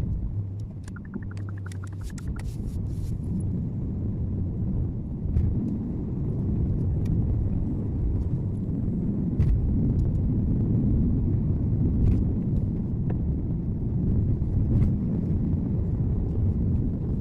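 Car driving, heard through a dashcam inside the cabin: a steady low road-and-engine rumble. Scattered sharp clicks and knocks come through it, with a short run of rapid ticks about a second in.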